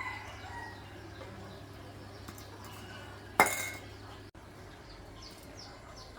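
A single sharp metallic clink with a brief ring about three and a half seconds in, over a steady low hum.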